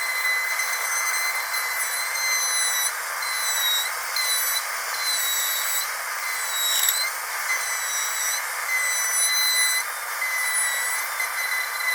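Dentist's drill running with a steady, high-pitched whine over a hiss, its pitch dipping briefly a few times.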